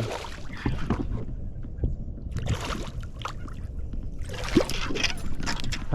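Water splashing in short bursts over a low steady rumble, as a hooked largemouth bass is fought to the boat.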